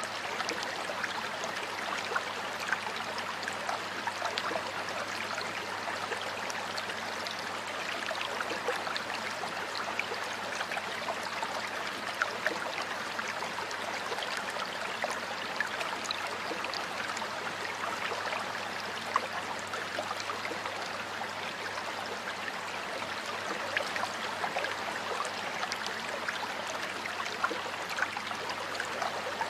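Stream water flowing and trickling steadily over stones, with small splashes and gurgles.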